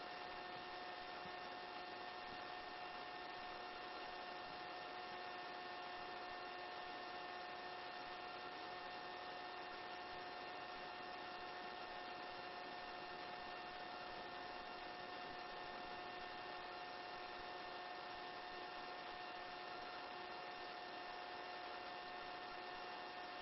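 Steady drone of a helicopter in flight, heard faintly through the intercom headset feed: an even hum with several fixed whining tones over a soft hiss, unchanging throughout.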